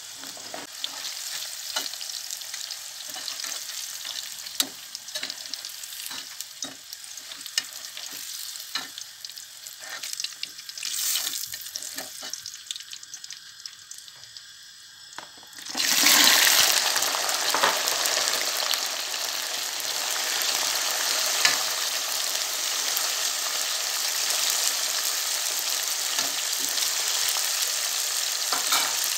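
A quieter first half with scattered clinks and taps, then, about halfway through, a sudden loud sizzle as long green peppers go into a pot of hot oil. The sizzle holds steadily as the peppers deep-fry.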